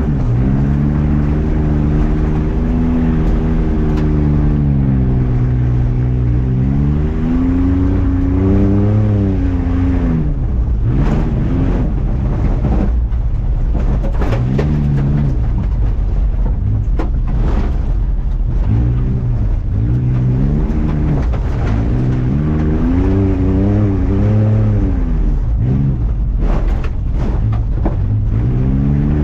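Off-road truck engine revving hard, its pitch climbing and dropping again and again as the throttle is worked. Scattered knocks and rattles come through in the middle and near the end.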